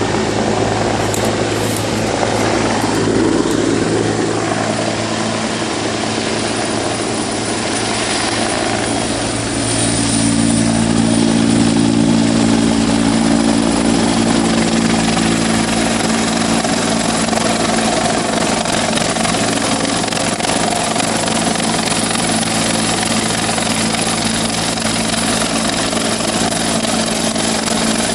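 Helicopter hovering and manoeuvring close by, a continuous rotor and turbine noise with a steady low drone that grows louder about ten seconds in as it comes nearer.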